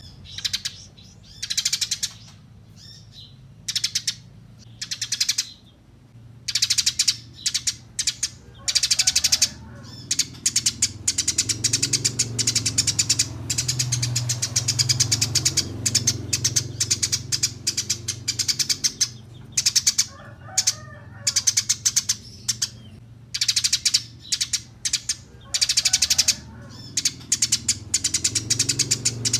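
Eurasian tree sparrows chirping: scattered short high chirps at first, then a fast, unbroken chattering run from about ten seconds in, over a low steady hum.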